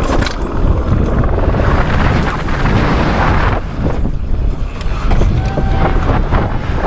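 Wind buffeting the microphone during a downhill mountain bike ride, a steady loud rumble with scattered knocks and rattles over rough ground.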